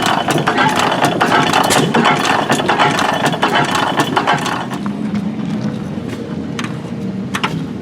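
Antique stationary gas engines running, with a busy mechanical clicking and clatter that eases off after about four seconds.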